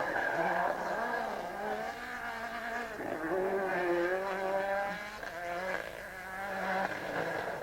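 Rally car engine revving hard, pitch climbing and dropping as the driver works through the gears.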